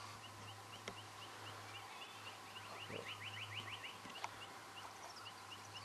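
A small bird calling: a series of short, high, rising chirps about three a second, speeding into a quick trill about two seconds in and then slowing again, faint over a low steady hum.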